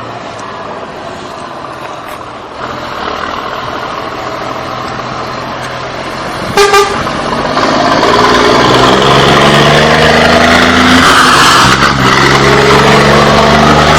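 Truck engine going by, with a short horn toot about seven seconds in, after which the engine runs much louder and climbs in pitch as it accelerates.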